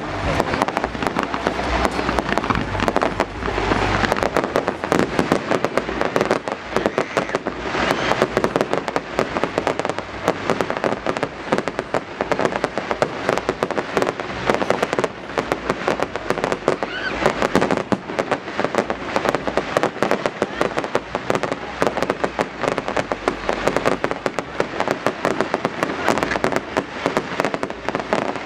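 Fireworks going off without a break: a dense, rapid run of bangs and crackles that overlap one another.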